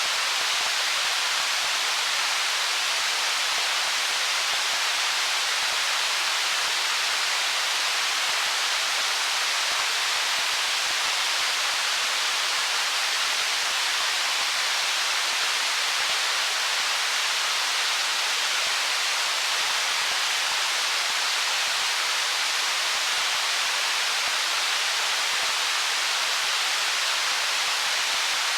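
Stream water rushing over stones: a steady, even hiss with no separate splashes or changes.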